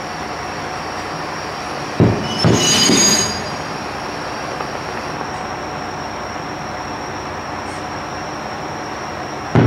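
A Joso Line diesel railcar creeping into the station from the siding, with a steady running noise and a thin, high, steady wheel squeal. About two seconds in, two sharp firework bangs with a brief crackle; another bang comes near the end.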